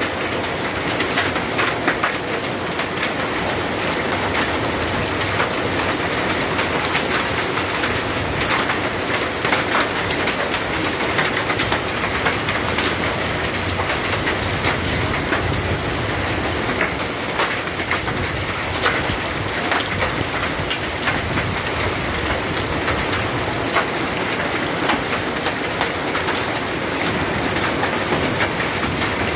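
Heavy rain pouring onto a paved surface: a steady, dense hiss of falling water with many small splashing ticks of drops striking the ground.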